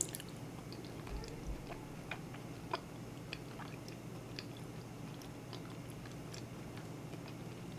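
Close-up chewing of soft corn and whole-bean porridge, with scattered small wet mouth clicks, over a faint steady hum.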